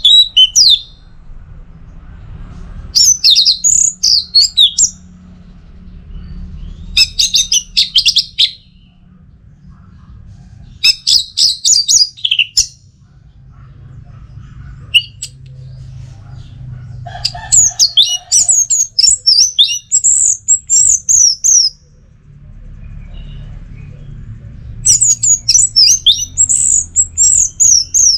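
Orange-headed thrush singing: five phrases of rapid, varied high notes, each two to four seconds long, with pauses of a few seconds between them, over a faint steady low hum.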